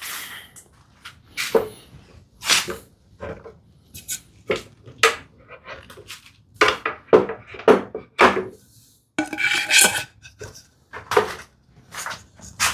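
Hammer tapping on a wooden frame to knock its mortise and tenon joints apart: a series of irregularly spaced knocks, about a dozen, with a tighter cluster a little past the middle.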